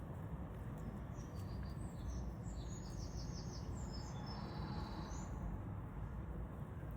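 A small bird chirping in short high notes, with a quick trill of repeated notes in the middle, starting about a second in and stopping about five seconds in, over a steady low background rumble.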